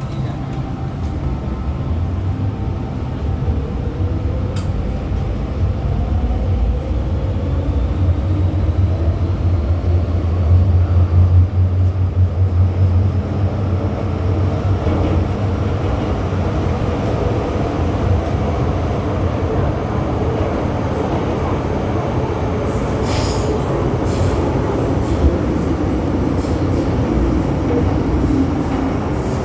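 MTR M-Train metro train running between stations: a traction-motor whine rising in pitch in the first several seconds over the steady rumble of wheels on rail, a low hum swelling and fading around the middle, and a brief high screech about 23 seconds in.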